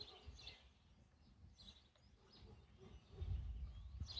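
Faint bird chirps, short calls repeating every half second or so, over low background noise, with a low rumble swelling about three seconds in.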